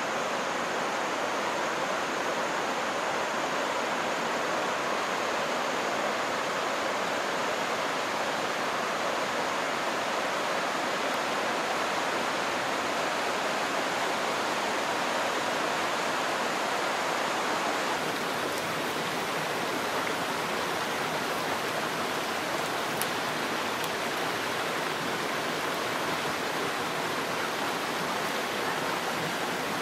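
Rushing river water: a steady, even noise that holds without change throughout.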